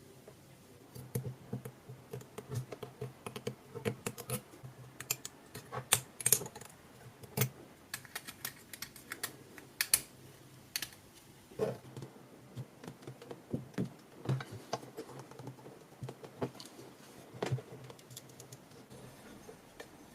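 Irregular light clicks and taps of small tools and plastic or metal parts being handled while a cordless screwdriver is worked on, several sharper knocks among them.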